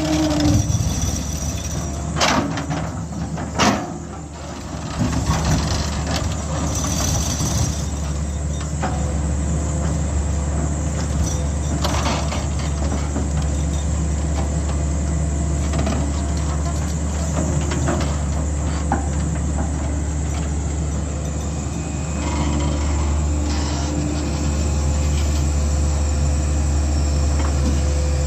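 Heavy diesel machinery engine running steadily under load, with a few sharp metal clanks in the first few seconds.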